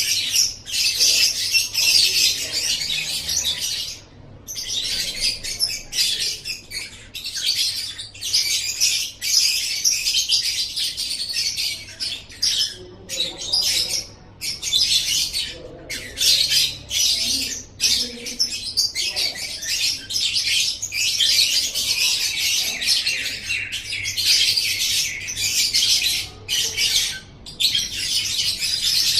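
Lovebird singing: a long, continuous stream of rapid, high-pitched chirps and chattering trills, broken now and then by brief pauses.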